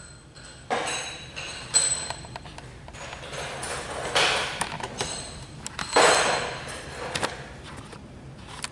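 Irregular knocks, clanks and clatter of metal and tools, with several louder hits that fade over about half a second.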